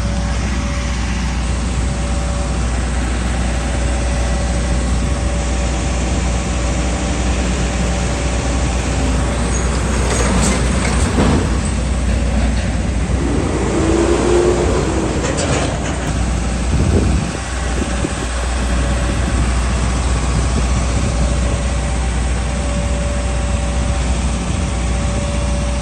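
Vehicle engine running steadily, with other traffic passing by about halfway through.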